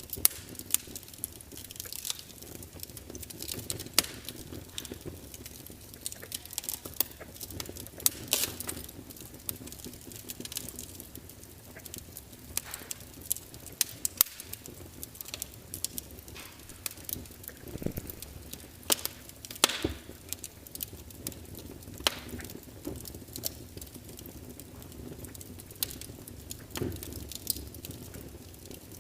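Wood log fire burning, with irregular sharp crackles and pops over a low steady hiss of flame.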